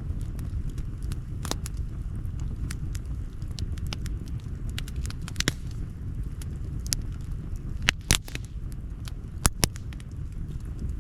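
Outdoor wood campfire crackling, with irregular sharp pops and snaps over a steady low rumble. The loudest pops come about eight seconds in and as a quick pair a little later.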